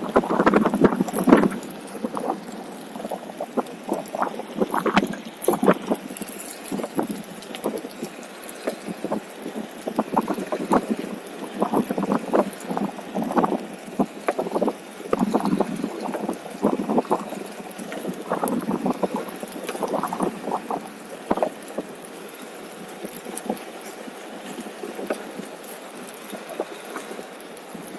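Irregular rushing and crackling noise while riding a Onewheel electric board along a trail: wind buffeting the microphone mixed with the tyre rolling over the path surface, swelling and easing unevenly.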